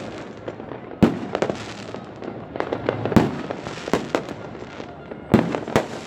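Fireworks going off: a run of sharp bangs, about six in six seconds, with many smaller pops between them.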